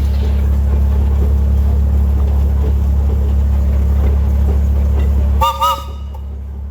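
A steady, loud low hum that cuts out near the end, just as a whistle gives two short toots, each bending up and back down in pitch.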